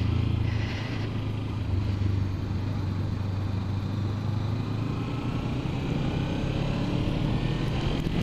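Kawasaki Ninja 300 parallel-twin engine running steadily, its pitch creeping slightly upward in the last few seconds.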